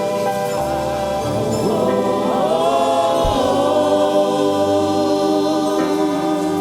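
Church choir singing gospel praise over keyboard and band accompaniment, with sustained held notes and sliding vocal runs.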